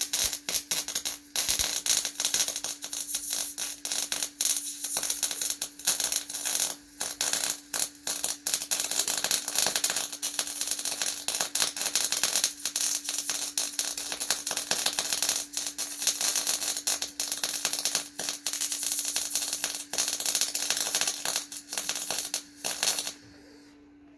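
Electric arc welding: a steady, dense crackle of the arc as a weld run is laid, cutting off abruptly shortly before the end.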